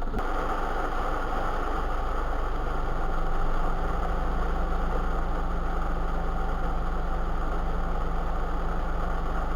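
Steady engine and road noise inside a Suzuki Every kei van, a low rumble under an even hiss. A steady low hum joins about three seconds in.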